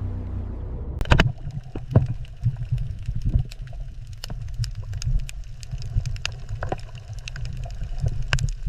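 Underwater ambience: a low rumble with many irregular clicks and pops starting about a second in.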